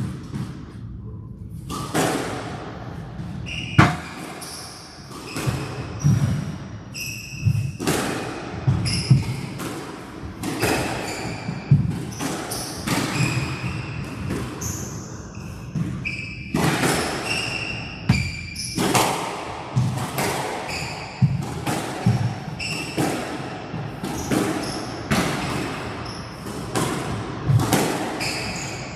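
A long squash rally: the ball cracking off rackets and the walls, about one to two hits a second, with players' shoes squeaking on the court floor.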